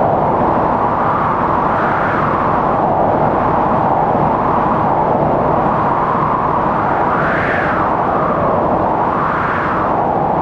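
Strong wind howling in a blizzard: a steady rushing noise with gusts that swell and rise in pitch a few times, most strongly past the middle.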